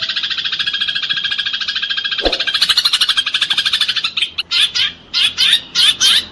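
Eurasian tree sparrows calling in a fight: a loud, fast, dense chattering trill, breaking up about four seconds in into separate sharp chirps, roughly two a second.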